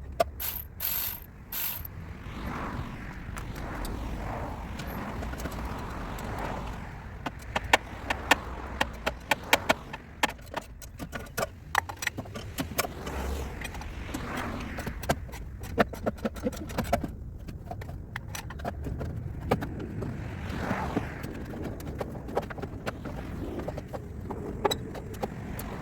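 Hand tools and metal parts clinking and clattering, with scattered sharp clicks and knocks, during work on a car's engine bay.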